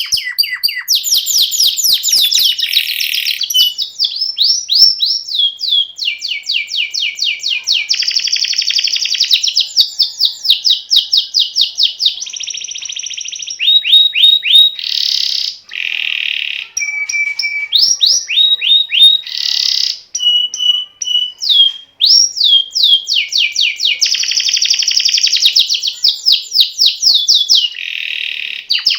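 Male canary singing a long, unbroken song of rapid trills. It changes phrase every second or two, moving between fast rolling runs of repeated notes, sweeping whistles that rise and fall, and brief held tones.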